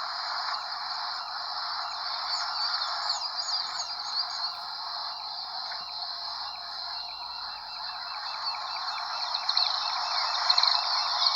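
Quail calls: short whistled notes repeated a little under a second apart, quickening into a rapid run of notes about two thirds of the way through, over a steady high hiss.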